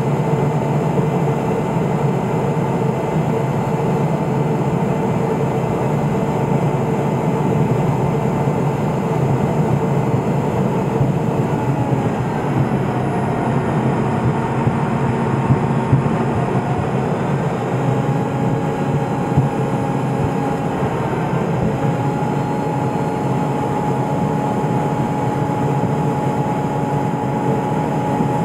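Cessna P210 Silver Eagle's Rolls-Royce turboprop engine and propeller heard inside the cockpit, running steadily in flight. Its tones shift in pitch a few times in the middle, then settle at a new steady pitch.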